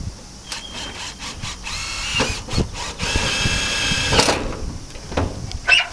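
Power drill running in two short runs: a brief one about two seconds in, and a longer one of just over a second starting about three seconds in. Scattered knocks and clicks fall between the runs.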